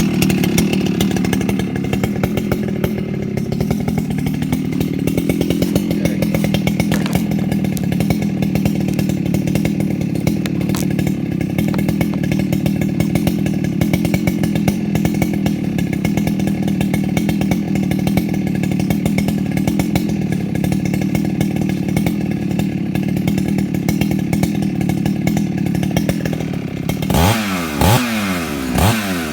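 Husqvarna 395XP two-stroke chainsaw, ported and running a tube exhaust, idling steadily while it warms up. Near the end the throttle is blipped several times, the engine revving up and dropping back.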